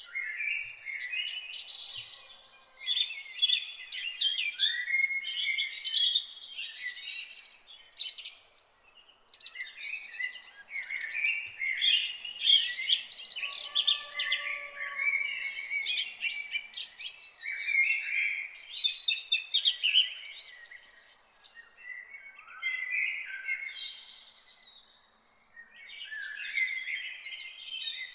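Many songbirds singing at once: a dense morning chorus of quick, high chirps and trills overlapping one another, with a couple of brief lulls. A faint steady high tone runs behind them.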